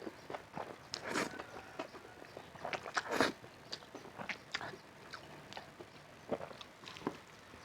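Close-miked eating: irregular bites and chewing of crunchy food, with a few louder crunches about a second in, around three seconds and near the end.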